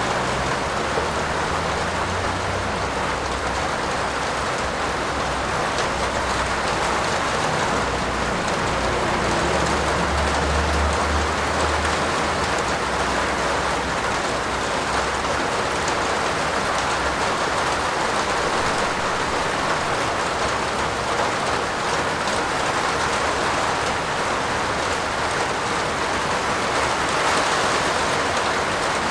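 Steady heavy rain falling on a roof, a dense even hiss. A low rumble sits under it through the first half, strongest about ten seconds in and fading out soon after.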